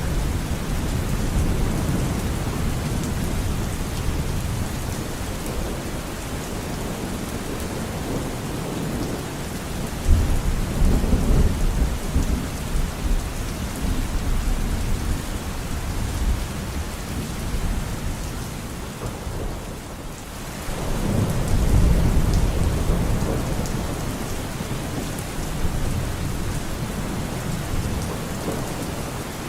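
Steady heavy rain with low thunder rumbling, swelling twice: about ten seconds in and again about twenty-one seconds in.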